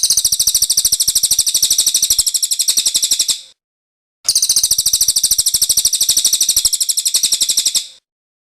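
Cililin songbird singing a very fast, even, high-pitched trill in two bursts of about three and a half seconds each, separated by a short pause just under a second long.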